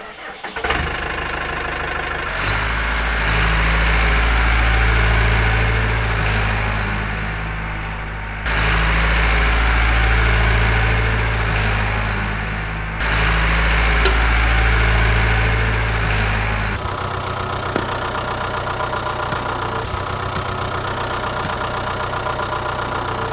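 Tractor engine running, its sound changing abruptly between steady stretches: heavier and louder from about 2.5 s in, then lighter with a quick even ticking from about 17 s in.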